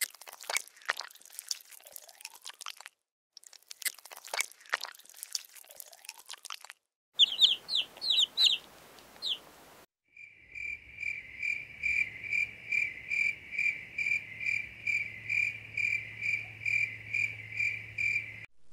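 Faint crackling clicks for the first seven seconds or so, then a few quick high chirps that fall in pitch. From about ten seconds in, an insect's chirping: a high pulsed call about twice a second over a low hum.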